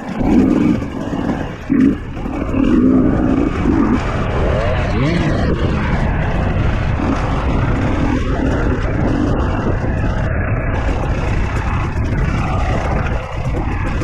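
Dirt bike engine revving in short bursts for the first few seconds, then running more steadily with brief rising revs, over wind and riding noise.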